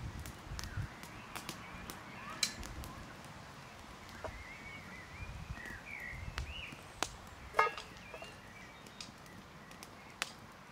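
Scattered sharp clicks and knocks from cooking at a campfire, with a few low thuds, and birds chirping a few times.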